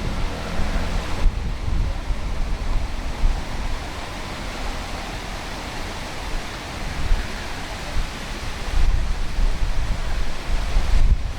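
Steady rushing of a nearby waterfall, with wind gusting on the microphone as uneven low rumbles.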